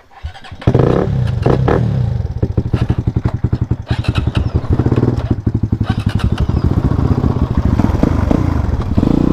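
A motorcycle engine starts up under a second in and keeps running, with a fast, pulsing beat and an uneven level.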